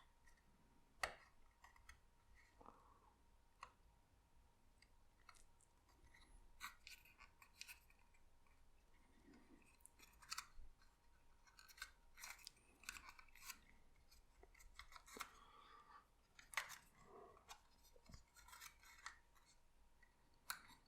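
Faint, scattered rustles and small ticks of card-stock paper pieces being handled, folded and pressed together while gluing a papercraft model.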